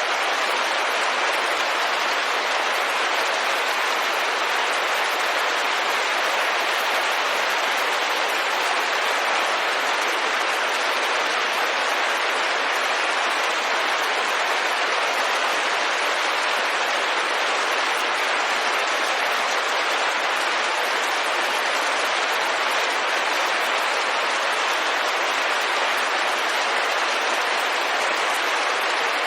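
Steady rain pattering on a window pane, an even rushing hiss that doesn't change.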